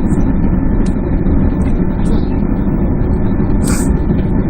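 Boeing 767-300's engines at taxi power and cabin air heard from inside the passenger cabin: a steady, loud low rumble, with a brief soft hiss about three-quarters of the way through.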